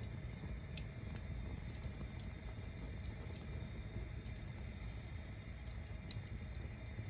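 Wood bonfire burning: a steady low rumble of the flames with scattered sharp crackles and pops from the burning logs.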